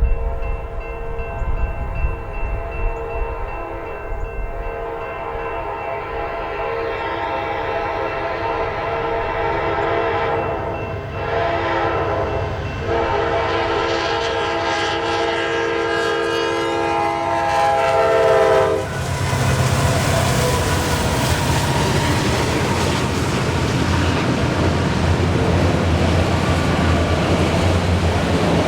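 Freight train's multi-tone air horn sounding for the grade crossing in long blasts with two short breaks, cutting off about 19 seconds in. Then the locomotive and cars pass with a steady rumble of engine and wheels, the wheels clicking over the rail joints.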